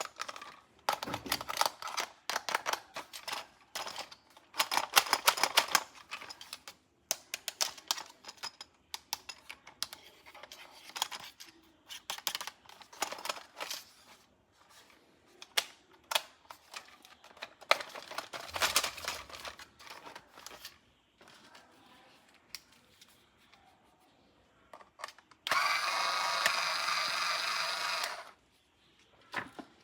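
Plastic toy parts being handled, with many quick clicks and rattles. About three seconds from the end, a steady, even electronic sound plays for about three seconds and then stops.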